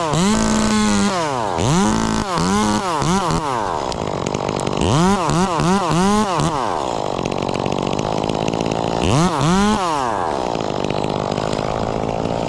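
Chainsaw revving again and again, each rev climbing in pitch, holding briefly and dropping back to idle; quick blips come in clusters about two and five seconds in, and there is a longer single rev near ten seconds.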